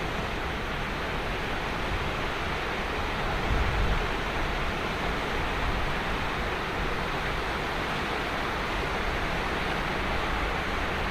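Ocean surf washing steadily onto a sandy beach, an even rushing hiss of breaking waves that swells briefly with a low rumble about three and a half seconds in.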